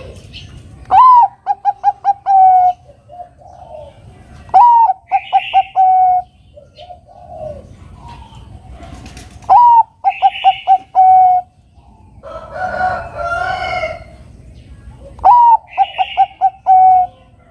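Zebra dove (perkutut) singing four times. Each phrase opens with a rising note, runs into a quick string of short coos and ends on a longer coo. About two-thirds of the way through, another bird gives a longer, rougher call.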